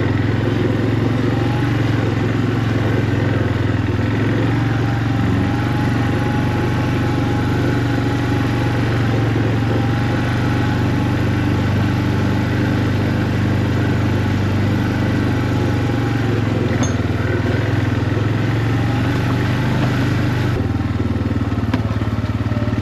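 A vehicle's engine running steadily as it drives along.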